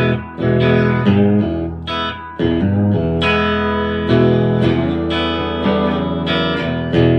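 Palo Escrito electric guitar played on its bridge pickup, with a bit sharper tone: quick repeated chords for the first couple of seconds, then longer chords left to ring.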